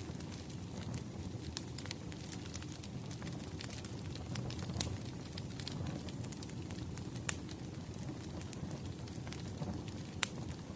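Wood fire crackling: a steady low rumble of burning logs with many small snaps and pops, a few of them louder.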